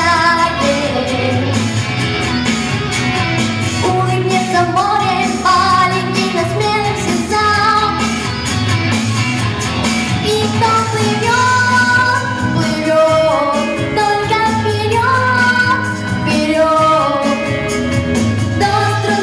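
Female voice singing a pop song over an instrumental backing track, with a steady bass line under the melody.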